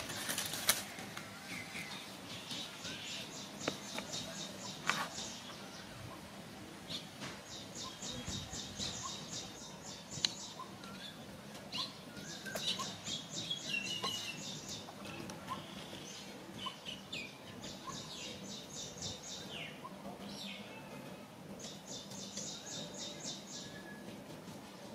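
A bird gives a high, rapid trill five times, each a second or two long, with a few short chirps between them.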